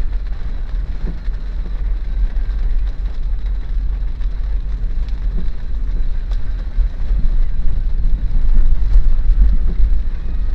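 Steady road and engine noise of a 2013 Daihatsu Terios heard from inside the cabin while driving, a deep constant rumble under an even hiss.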